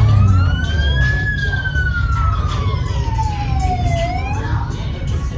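Police car siren wailing: one slow rise and fall in pitch lasting about four seconds, then starting to rise again near the end, over a steady low rumble.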